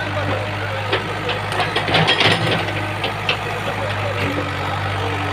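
An engine running steadily at idle, a low hum with scattered clicks and knocks over it.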